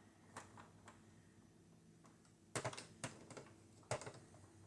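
A few faint, short clicks and taps of hard plastic toy parts being handled, about two and a half to four seconds in, against quiet room tone.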